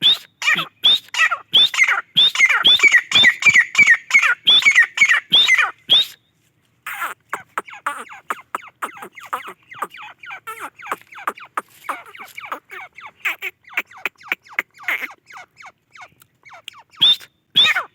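Grey francolin (gora teetar) in excited 'masti' calling: a rapid series of short, sharp, high calls for about six seconds, a brief pause, then softer quick ticking notes, with the loud calls returning near the end.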